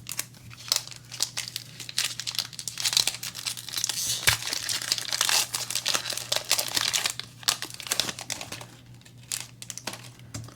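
Foil booster pack wrapper of a Disney Lorcana trading card pack being crinkled and torn open. The crackling is densest in the middle and thins out near the end.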